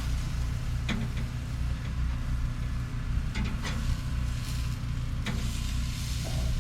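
A small engine running steadily with a low, even hum, with a few faint clicks over it.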